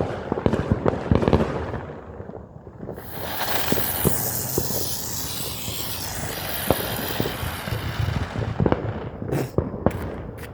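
Small consumer firework going off: a quick run of crackling pops, then a steady hiss of spraying sparks lasting several seconds, and a few more pops near the end.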